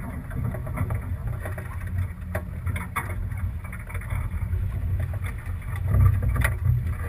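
Sailboat under way, heard on a GoPro microphone: a steady low wind rumble on the mic with scattered sharp knocks and splashes, and a stronger gust about six seconds in.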